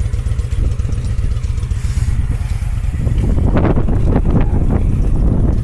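Motorcycle engine running with a steady low rumble, joined about three seconds in by irregular clattering.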